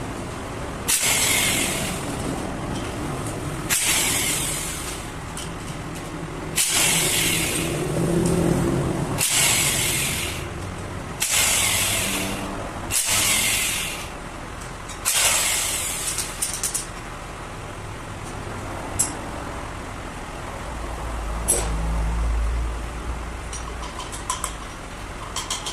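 About eight short bursts of hissing air, each about a second long and a second or two apart, with a low hum later on.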